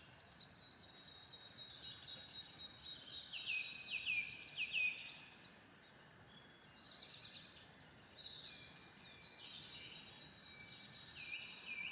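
Several songbirds singing at once, overlapping phrases of quick downward-sweeping high notes over a faint hiss.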